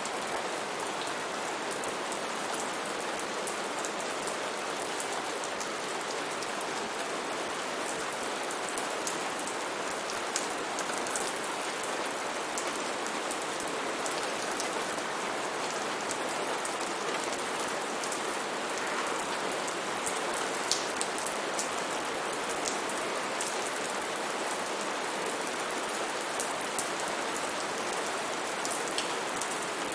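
Steady rain falling on a rainforest canopy, an even hiss with scattered sharper drops pattering on leaves.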